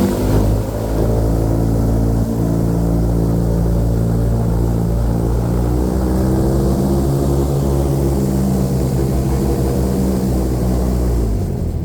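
Airboat's engine and aircraft-style propeller running steadily under way, then throttled back so that the engine note drops away sharply near the end.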